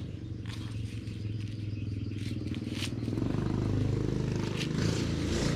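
A small engine running steadily and getting louder about three seconds in, with a few clicks and rustles in the first half.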